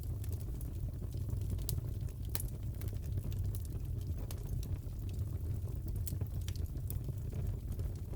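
Wood fire crackling in a fireplace: a steady low rumble of flames with irregular sharp crackles and pops.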